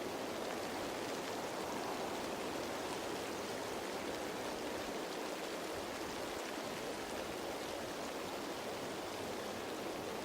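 Steady rain falling on leaves: an even wash of pattering drops that does not change.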